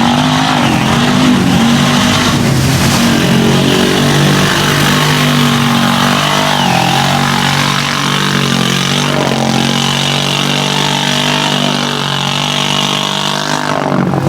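Off-road vehicle engine running loudly and steadily, its pitch holding fairly level with small rises and dips.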